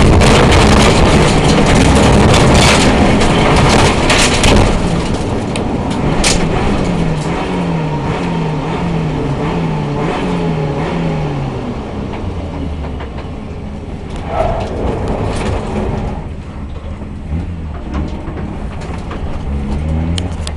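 A rally car's engine heard from inside the cabin. It runs loud and high for the first few seconds, then eases off to slow running. In the middle it gives about six short revs in a row, each rising in pitch and dropping back, then settles to steady low running.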